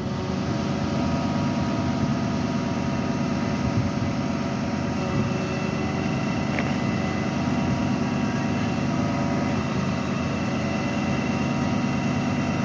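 Utility bucket truck's engine running steadily at idle, a low, even hum as the boom lifts a lineman.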